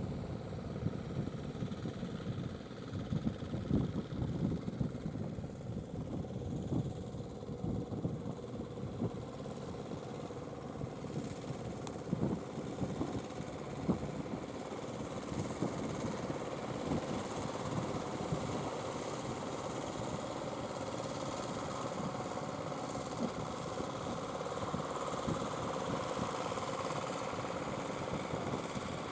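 Fishing boat engine running steadily with a constant hum, growing a little louder in the second half.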